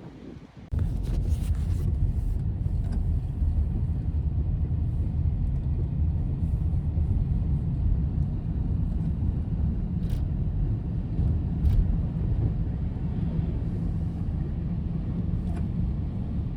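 A vehicle running with a steady low rumble, which starts about a second in after a brief quiet dip.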